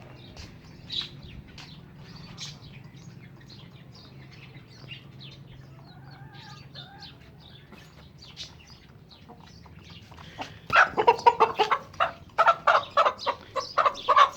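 Chickens clucking: faint scattered chirps and clicks at first, then a run of loud, rapid, repeated clucks that starts about three-quarters of the way in.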